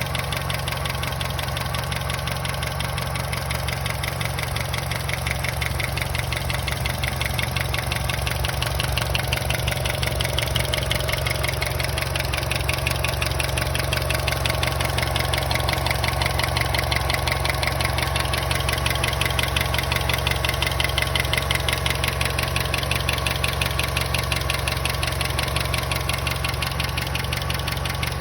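Opel Astra J's A14NET 1.4-litre turbocharged four-cylinder petrol engine idling steadily, with a fast, even ticking running through it: the weird engine noise the owner is asking about.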